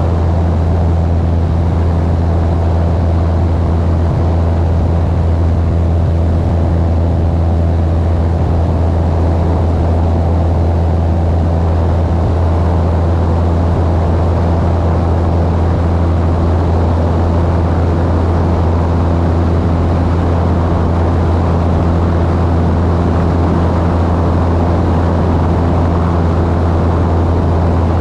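Propeller airplane's engine and propeller running at steady high power: a loud, low drone that holds one pitch throughout.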